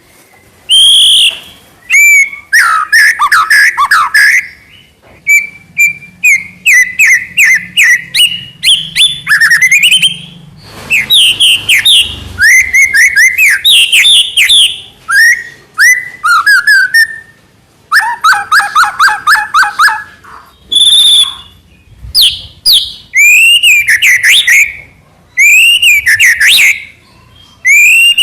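White-rumped shama (murai batu) singing a long, varied song of loud whistled phrases, pitch glides and rapid chattering trills, broken by short pauses.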